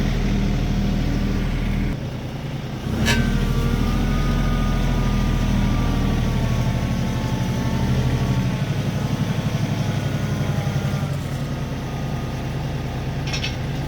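RK37 tractor's diesel engine running steadily while working a three-point post hole digger, with a sharp clack about three seconds in followed by a faint whine, and a brief click near the end.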